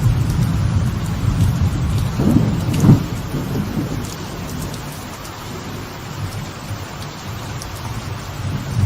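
Light rain falling on a veranda as a steady hiss, under rolling thunder. The thunder cracks loudest about three seconds in, dies away, and starts rumbling again near the end.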